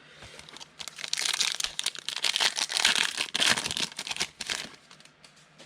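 Foil wrapper of a trading-card pack crinkling as it is opened: a dense run of crackling that starts about half a second in and stops just before the end.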